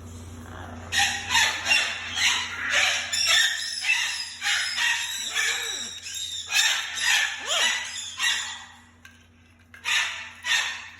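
A parrot screeching in a rapid run of harsh calls, which break off briefly near the end and then start again: a jealous pet parrot calling for attention.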